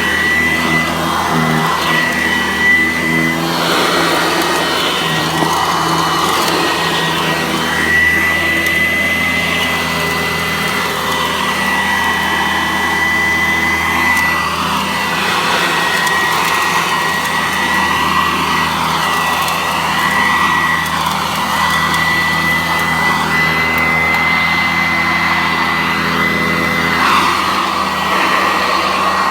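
Upright vacuum cleaner running steadily: a broad rush of air with a constant high motor whine over it. Its owner thinks a new belt would probably suit it.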